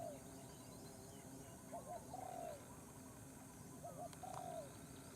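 A dove cooing faintly, a phrase of two short notes and a longer falling note, repeated three times about two seconds apart.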